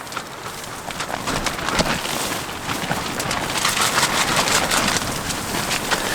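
Nylon tarp shelter rustling and flapping in strong gusting wind, with freezing rain pattering on it as many small crackling ticks. It grows louder over the first few seconds.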